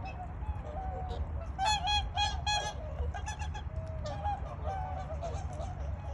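Birds calling over and over in short pitched calls, with a louder run of about four calls around two seconds in. A steady low rumble runs underneath.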